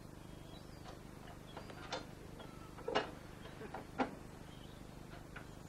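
Seaton Tramway tram in motion: a faint, steady low hum with sharp clicks about a second apart.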